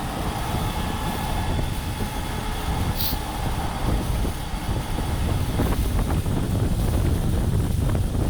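Steady low rumble of heavy diesel truck noise, with a brief sharp click about three seconds in.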